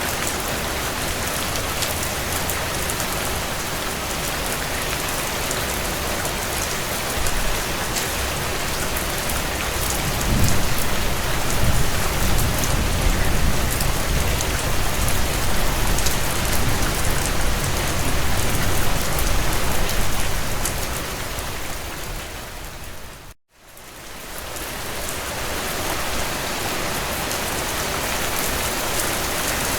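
Heavy rain drumming on a tin roof, a dense, steady hiss of drops. A low rumble swells under it from about a third of the way in and eases off after about ten seconds. About three-quarters through, the rain fades out to a moment of silence and fades back in, a loop join in the recording.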